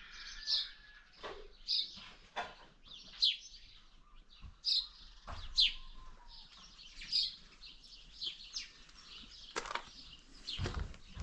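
Birds chirping in short, high, repeated calls, roughly one a second, with a low thump near the end.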